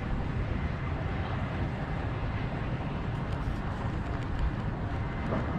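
Motorcycle running, a steady rumble blended with wind noise on the microphone, with no clear engine note standing out.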